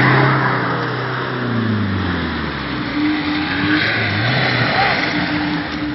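Motocross bike engine running. Its pitch falls as the throttle eases off over the first couple of seconds, then it revs up and down again.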